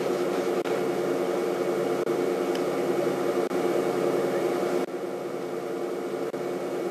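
Steady mechanical hum made of several even, level tones over a light hiss. It dips slightly in level about five seconds in.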